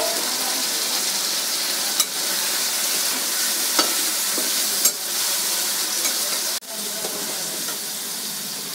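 Diced potatoes frying in hot mustard oil in a kadhai, a steady sizzle, with a few short clinks and scrapes of a steel spoon stirring them against the pan.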